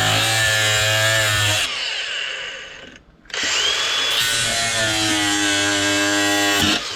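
Power drill running in two runs of a steady motor whine. It stops and winds down about two seconds in, starts again about a second later, and runs for about three and a half seconds before stopping.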